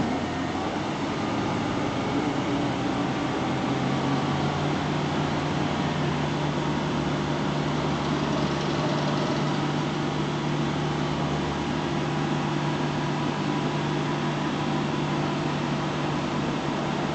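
A vehicle engine running at a steady speed: an even low drone over a constant hiss of road and wind noise, the drone settling into a clearer, steady hum about four seconds in.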